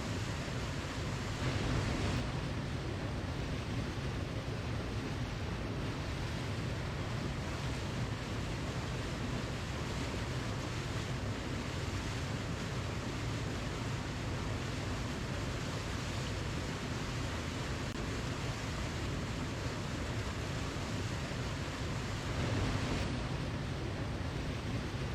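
Waterfall: a steady rush of falling water, swelling slightly twice, about two seconds in and near the end.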